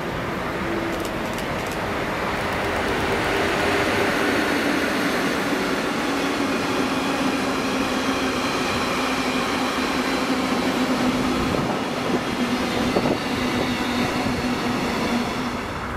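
Freight train of tank wagons rolling past close by behind an electric locomotive: a steady, loud rolling of steel wheels on rail, with a tone that drops in pitch early on as the locomotive passes, then holds. A few sharp wheel clicks come near the end.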